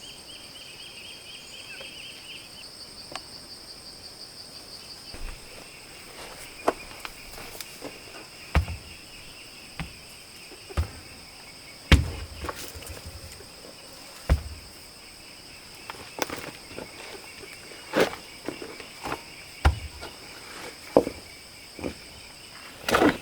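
Insects buzzing in a steady high drone, with irregular knocks and thumps starting about five seconds in and recurring every second or two.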